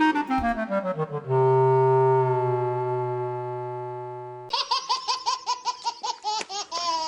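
A quick falling run of musical notes into a held chord that slowly fades, then from about four and a half seconds in, rapid laughter in short bursts, several a second.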